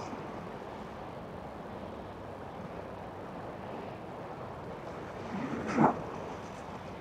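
Steady background noise of harbour boat traffic and wind, broken near the end by one short, loud yelp-like call.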